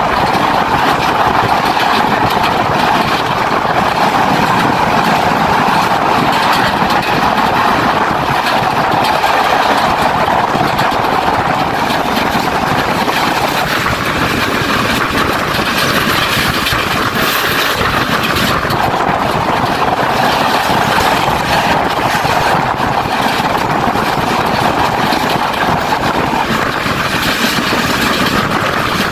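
Steady running noise of a passenger train moving at speed, heard from an open carriage window: wheels on the rails and the rush of passing air. The tone of the noise changes for a few seconds about halfway through and again near the end.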